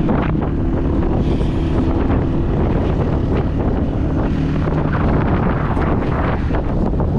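Honda 125 motorcycle engine running while riding, with wind rushing over the microphone.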